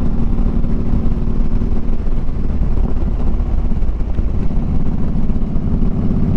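Harley-Davidson Street Glide's V-twin engine running steadily while riding; its even beat becomes more distinct near the end.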